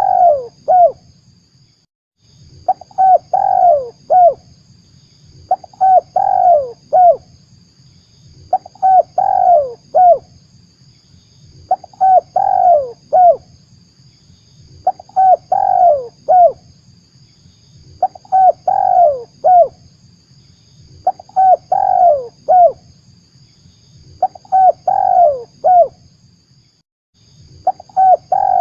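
Spotted dove (tekukur) cooing its lure call: the same phrase of four or five coos is repeated about every three seconds, nine or ten times. A faint steady high hiss runs underneath.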